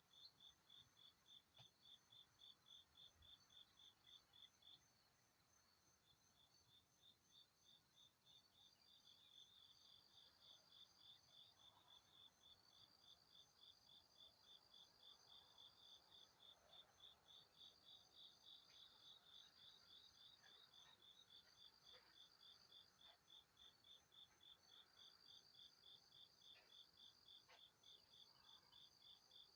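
Insects chirping in rapid, evenly spaced high-pitched pulses, with a second, higher steady trill coming and going in stretches; the pulsing breaks off for about a second near the first third, then resumes.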